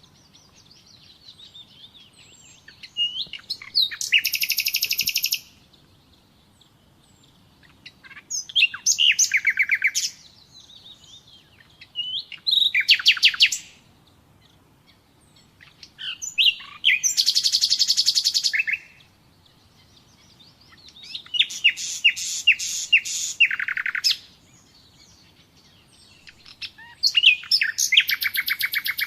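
Common nightingale singing: about six separate phrases a few seconds apart, each a fast run of repeated notes, some led in by a few single whistled notes.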